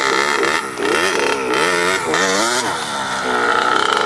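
Small dirt-bike engine revving up and down several times in quick succession as the throttle is worked, settling into a steadier run near the end.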